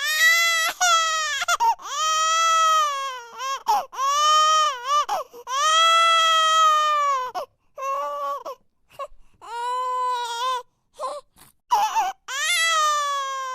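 A baby crying in a string of loud wails, each rising and then falling in pitch, the longest lasting about two seconds, broken by short gasps and catches of breath.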